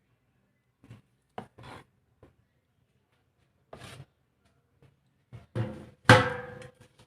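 Kitchen cookware and utensils being handled: a few short knocks and scrapes, then a louder clank about six seconds in that rings briefly, as from a metal pot or bowl being struck.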